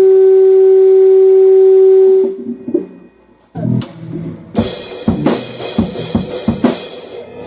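A loud steady tone held for about two seconds and cut off, then after a short pause a drum kit playing irregular hits with cymbals washing over them.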